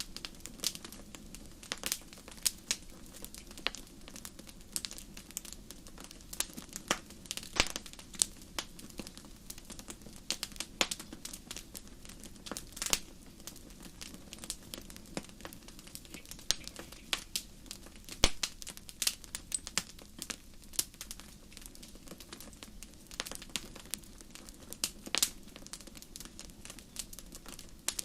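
Wood fire burning in a fireplace, crackling and popping irregularly over a steady low hiss of flame.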